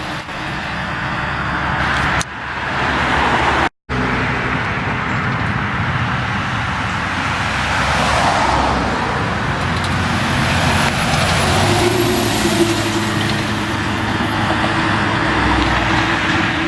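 Road traffic with trucks and cars driving past: engine and tyre noise, broken by a brief cut to silence about four seconds in.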